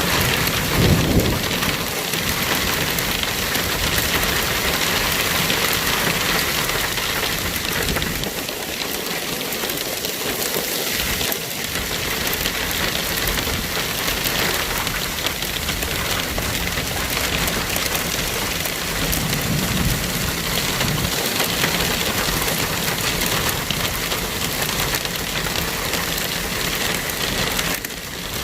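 Heavy rain falling steadily, a continuous hiss of rain on surfaces.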